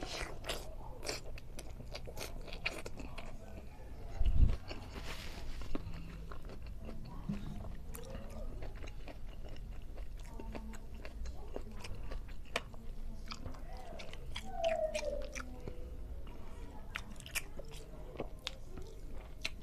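Close-up chewing of a hand-fed mouthful of rice and fish, with many short wet lip-smacks and mouth clicks. A single low thump about four seconds in is the loudest sound.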